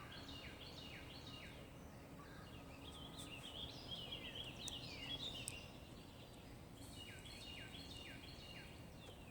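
Several songbirds singing, repeated quick down-slurred whistled notes overlapping, over a faint steady low hum.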